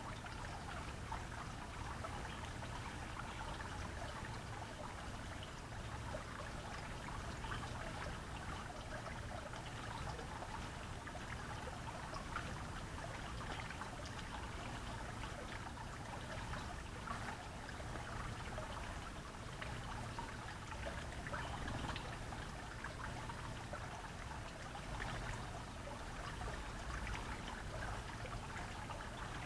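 Steady trickling water, with a low rumble underneath.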